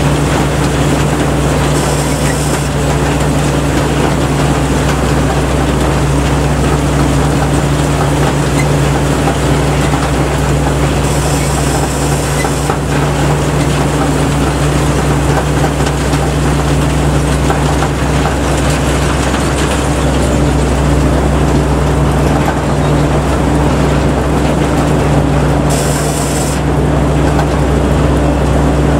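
Kaset Pattana rice combine harvester running steadily under load, its engine making an even hum. A brief high hiss rises over it three times.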